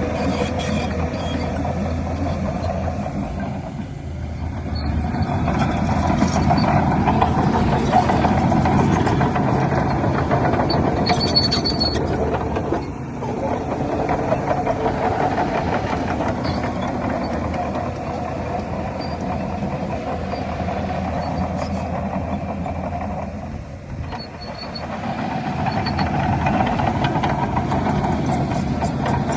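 Shantui DH17C3 bulldozer working, its diesel engine running hard with track and blade noise. The level swells and eases, dropping briefly three times, about every ten seconds, as the machine cycles through its pushes.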